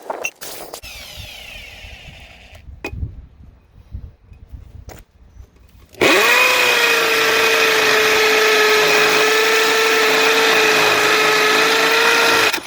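A few clicks and knocks of handling, then, about six seconds in, a Chicago Electric 1/2-inch corded hammer drill with a 1/2-inch masonry bit starts suddenly. It runs at a steady high speed for about six seconds, hammer-drilling into cinder block, and stops abruptly near the end.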